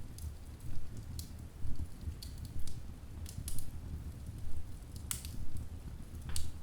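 Wood fire burning in a fireplace: irregular crackles and sharp pops of the burning logs over a steady low rumble of the flames, with the loudest pop about five seconds in.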